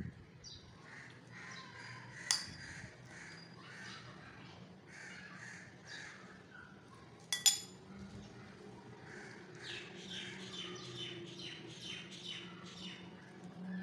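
Birds calling repeatedly in the background, their calls coming faster in the last few seconds. Two sharp clinks of a metal spoon against a glass pot lid, about two and seven seconds in, are the loudest sounds, over a steady low hum.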